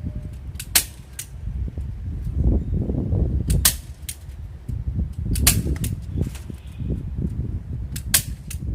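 Sharp clicks or snaps, about six of them at irregular spacing, over a steady low rumble.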